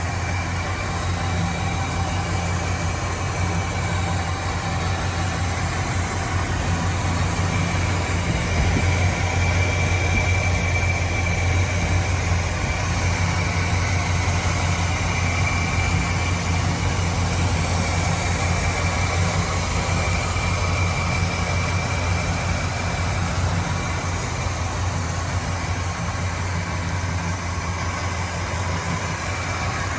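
1965 Pontiac Grand Prix's V8 idling steadily, warming up after a cold start, with a slight swell in level about ten seconds in.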